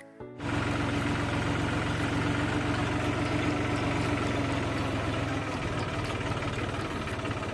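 Tractor engine running steadily under load as it pulls a weeding implement between cotton rows. It cuts in abruptly about half a second in.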